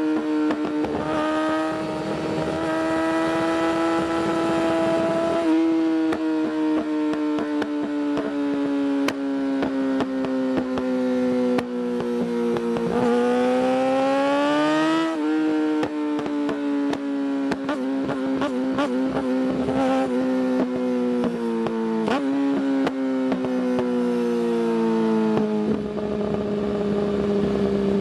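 Yamaha R6's 600cc inline-four, through an Akrapovic exhaust, ridden at high revs. The engine note sags and climbs with riding, with a strong rise about halfway through, and drops suddenly in pitch four times as it shifts up.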